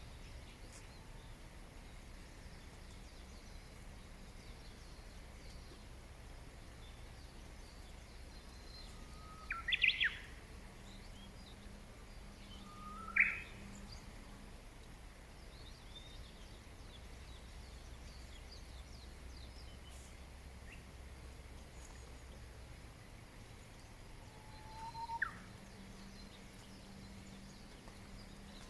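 Wild birds calling over steady low background noise: three louder calls, each a short low note that sweeps sharply upward, about ten, thirteen and twenty-five seconds in, with faint high chirps scattered between them.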